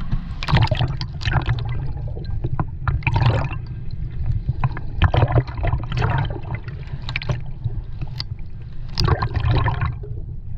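Sea water sloshing and gurgling among rocks in a series of surges, over a steady low rumble.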